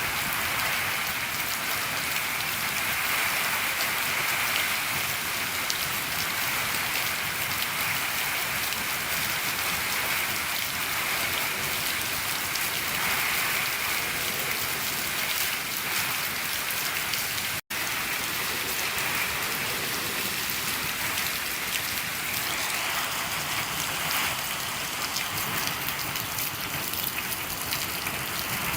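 Steady rain falling on a shed roof: a dense, even patter of drops. It cuts out for a split second about two-thirds of the way through.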